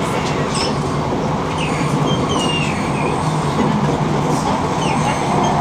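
Passenger train running at speed, heard from inside the carriage: a steady rumble of wheels on the track with a low hum underneath.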